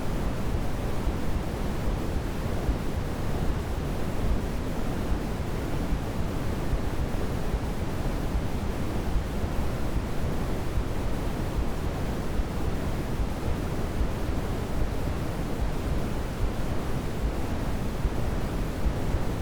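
Steady sleep-aid white noise: an even, unbroken rushing hiss, heavier in the low end and thinning toward the top, closer to pink noise than flat white noise.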